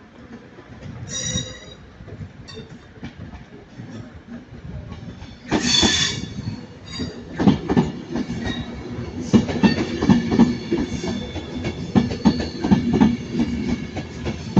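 Avanti West Coast Class 390 Pendolino electric train running in along the platform: a brief high wheel squeal about a second in, a louder squeal around six seconds in, then its wheels clattering over rail joints in a quickening run of clacks to the end.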